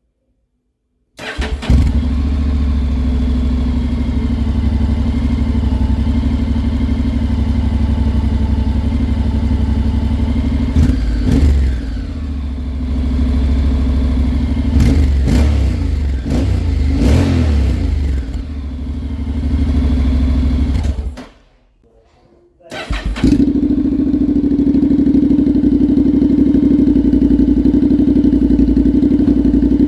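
Honda Integra motorcycle's parallel-twin engine breathing through a Leovince aftermarket exhaust. It starts about a second in and idles, then is revved several times. Near the middle it drops out briefly, then it runs again at a steady idle.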